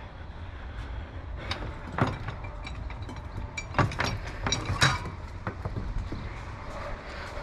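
Hand tools clinking and knocking on metal while a rear shock absorber is being worked loose on a Ford F-150. There are a few sharp, ringing clanks about two seconds in and again around four to five seconds in, over a low steady rumble.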